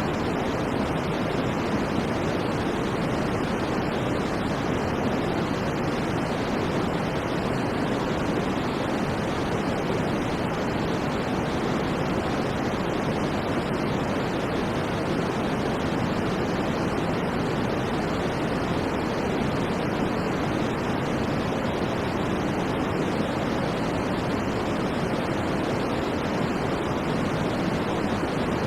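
Continuous white noise for sleep, steady and unchanging, a deep rush rather than a bright hiss.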